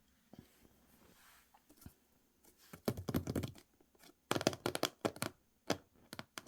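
Hands unpacking packaging: crinkling and rustling in two clusters of quick crackles about three and four and a half seconds in, with a few single clicks between.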